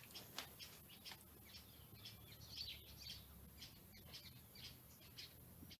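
Faint bird chirps: many short, scattered calls over a quiet background.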